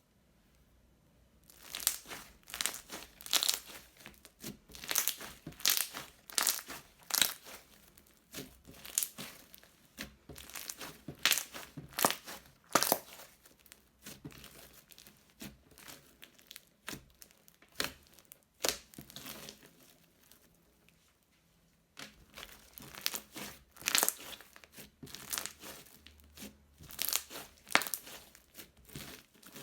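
Crunchy slime being squeezed and pressed, crackling in dense runs of crisp pops, with a lull of about two seconds around twenty seconds in.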